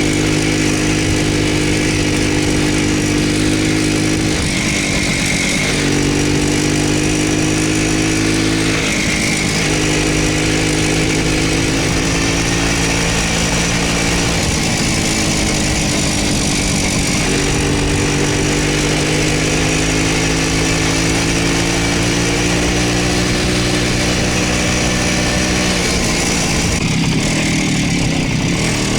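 Voskhod motorcycle's two-stroke single-cylinder engine running under way, its note dropping and rising again several times as the revs change.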